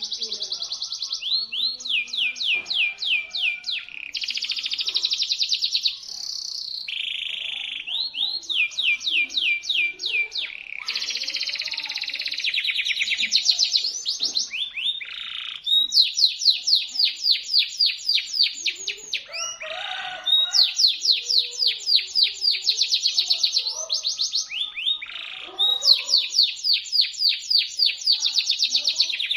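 Domestic canary singing without a break: long fast trills and rolls of sharp, high-pitched notes, each phrase a rapid run of repeated sweeping notes lasting a few seconds before it switches to another.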